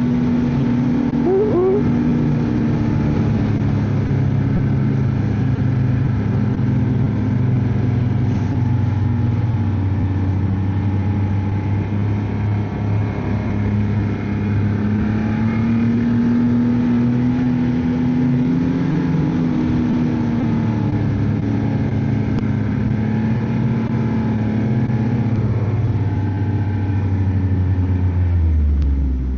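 Ski-Doo snowmobile engine running at a steady cruising speed, its pitch rising and falling a little, then easing off near the end.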